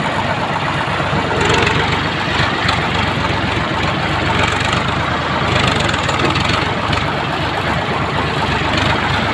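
Sonalika DI 745 tractor's diesel engine running steadily with an even, rapid low chugging.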